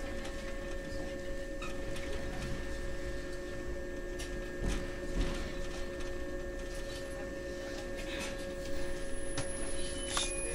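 123 series electric railcar standing still at a station, its onboard equipment humming steadily on several fixed tones, with a few faint clicks and knocks.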